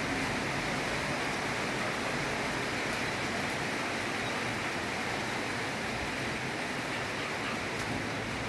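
Rain falling steadily and heavily: an even, unbroken hiss.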